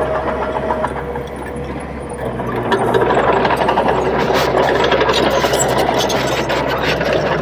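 Crawler bulldozer's diesel engine running steadily. About three seconds in it grows louder, with a dense metallic clatter of clicks over the engine.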